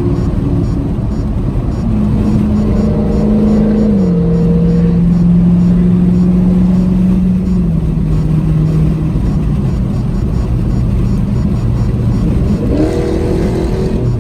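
Car engine running under way, heard from inside the car. Its pitch holds steady and then drops in a few steps, and it revs up again near the end.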